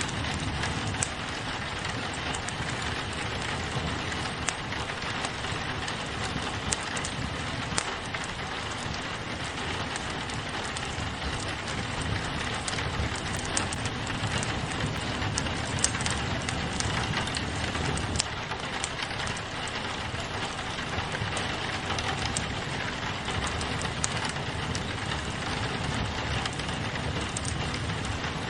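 Steady rain pattering on a window, mixed with a crackling wood fire that gives scattered sharp pops and snaps.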